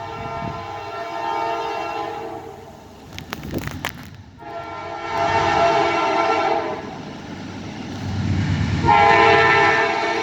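Norfolk Southern diesel locomotive's air horn blowing a multi-note chord in three long blasts as the double-stack freight train passes close by at speed. Diesel engine rumble swells between the blasts.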